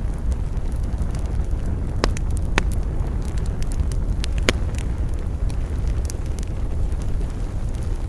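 Wood campfire burning: a steady low rush with irregular crackles and a few sharp pops, the loudest about two seconds in and again about halfway.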